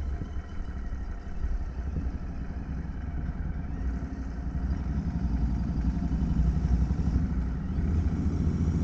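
Royal Enfield motorcycle engine running steadily while riding, a deep continuous rumble that grows a little louder after the middle.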